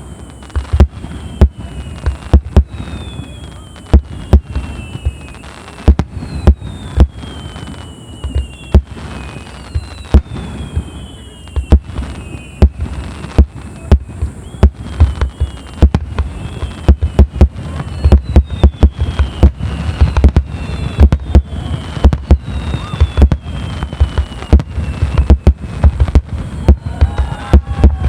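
Aerial fireworks display: shell bursts booming in quick succession, several a second, packing closer together toward the end, with repeated falling whistles between the bangs.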